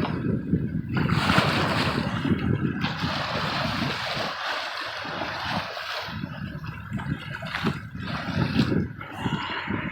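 Wind buffeting the microphone in gusts over the steady rush and splash of open-ocean water around a small sailboat.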